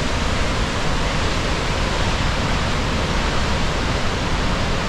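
Steady rushing of Gullfoss waterfall, the Hvítá River plunging into its canyon, an even noise with no break.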